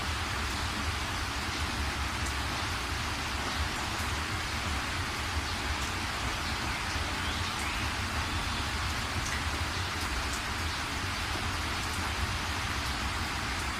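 Steady rain falling, a continuous even hiss with scattered faint ticks of single drops.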